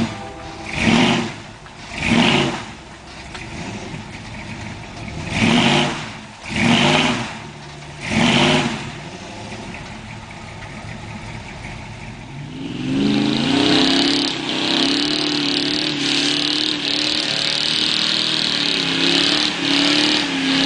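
Pickup truck engine revved in a series of short bursts about a second apart, then held at high revs for about eight seconds from just past halfway, stopping near the end.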